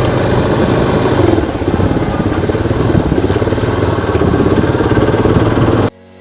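Yamaha Lander 250 motorcycle's single-cylinder engine running under a loud, dense rushing noise, which cuts off suddenly near the end.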